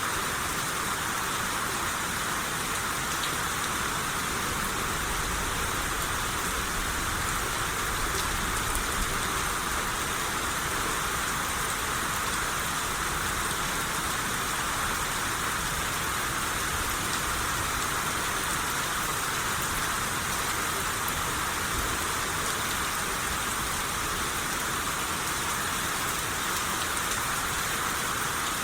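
Steady rain shower falling on surfaces, a continuous even hiss with faint scattered drop ticks.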